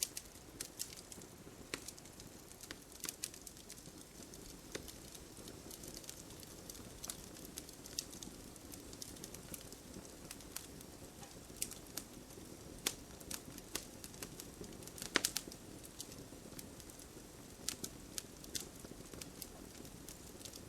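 Wood campfire burning: a steady low hiss of flames with frequent sharp, irregular crackles and pops, a quick cluster of pops about fifteen seconds in.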